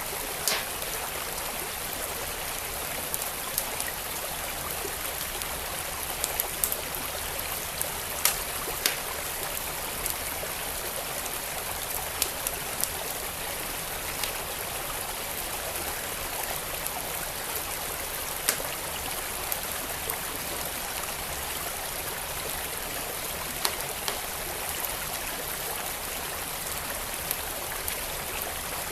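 Steady rush of a flowing creek, with the sharp pops and crackles of a wood fire burning, a few every several seconds.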